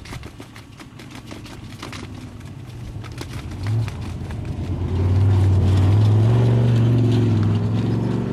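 Off-road race vehicle's engine approaching and passing at speed. It grows louder from about three seconds in, is loudest near the end, then falls away.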